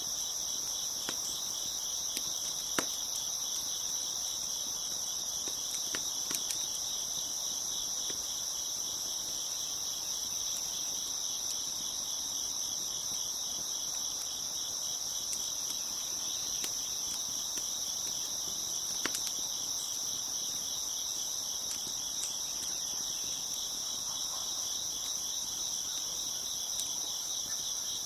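Crickets chirping in a steady, dense chorus, with a few sharp pops from a crackling wood fire, the loudest about three seconds in and again near nineteen seconds.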